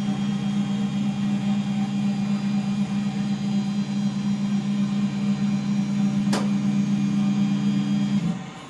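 KX1s benchtop CNC mill running with a steady low hum as it finishes a drilling job, with a single brief click about six seconds in. The machine shuts off abruptly just after eight seconds in, at the end of the job.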